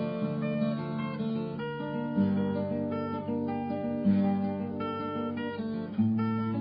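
Acoustic guitar music: sustained, plucked and strummed chords, changing about every two seconds.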